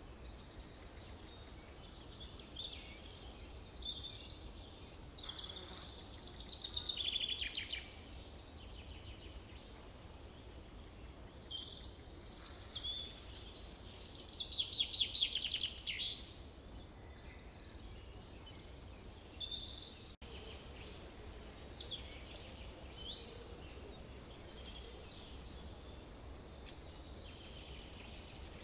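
Forest birdsong: several birds calling and singing over a steady low background hiss. Twice, a quarter of the way in and about halfway, one bird gives a louder trill of rapid notes that falls in pitch. The sound briefly cuts out about two-thirds of the way through.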